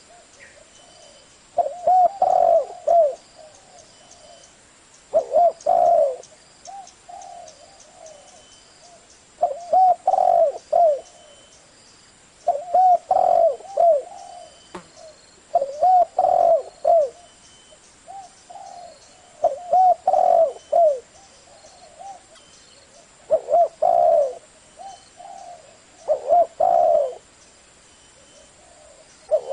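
Spotted dove cooing in the deep 'giọng thổ' voice, a phrase of several low coos repeated about every three to four seconds, nine phrases in all. This is a call used to provoke and stir a caged dove into cooing back.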